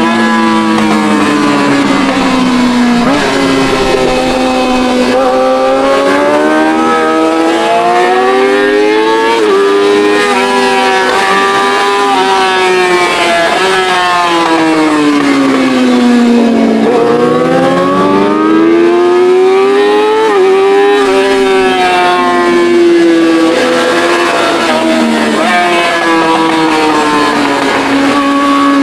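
Yamaha R6's straight-piped inline-four engine at speed on track. It revs up through the gears with sharp steps down in pitch at each quick upshift. About halfway through it falls off in pitch as the bike slows, then climbs hard again.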